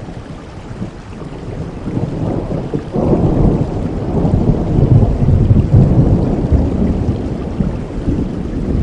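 Rain falling steadily under rolling thunder: a deep rumble swells suddenly about three seconds in and keeps rolling, loud, for several seconds before easing slightly near the end.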